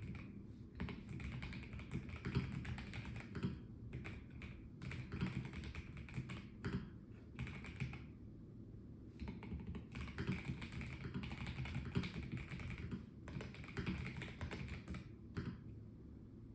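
Typing on a Melgeek Mojo84 mechanical keyboard with a plastic case: quick runs of key clicks in bursts of a few seconds, broken by short pauses, with a few single keystrokes near the end.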